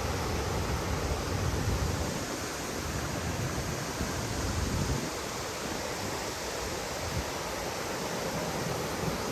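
Waterfall rushing: a steady, even roar of falling water, with a low rumble that swells and fades in the first five seconds.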